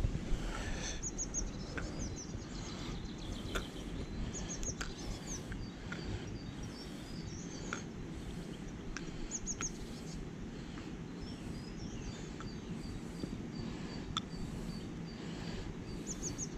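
Small birds singing: one repeats a short, high trilled phrase several times, another gives a run of thin high notes. Under them runs a steady low outdoor rumble, with a few faint clicks.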